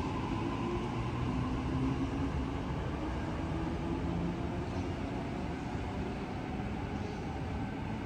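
Electric suburban train running through the station: a steady rumble of wheels on the rails, with a faint motor hum that fades out about halfway.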